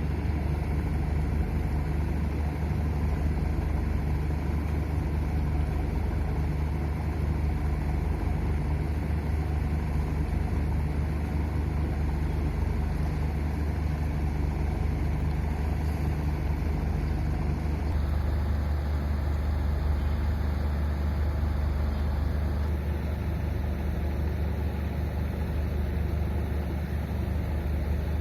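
Engines of a fast passenger boat running with a steady low drone while it moves between berths; a higher hum in the drone stops about two-thirds of the way through.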